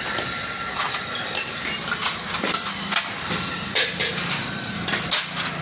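Scattered metal clinks and knocks as truck gearbox parts and tools are handled at a workbench, over a steady low hum.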